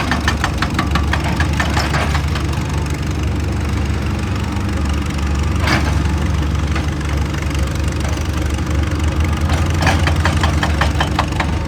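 Excavator's diesel engine running steadily under load, with bursts of rapid clicking near the start and near the end, and one sharp crack about six seconds in.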